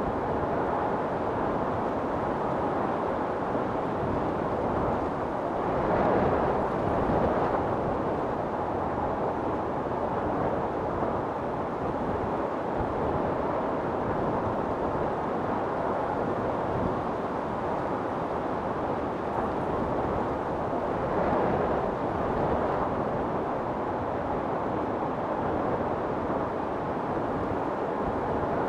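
Wind storm blowing steadily, with gusts swelling louder about six seconds in and again about twenty-one seconds in.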